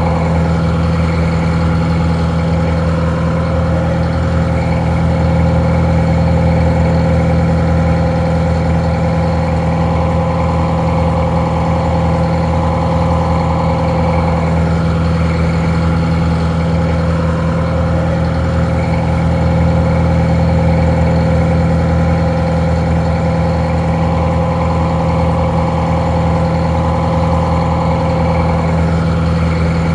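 Detroit Diesel 4-71 two-stroke inline-four diesel engine idling steadily, sounding a little muffled.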